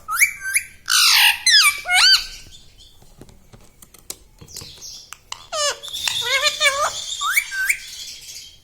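Ringneck parrot squawking: shrill calls that swoop up and down in pitch, in a burst over the first two seconds and another from about five and a half seconds in.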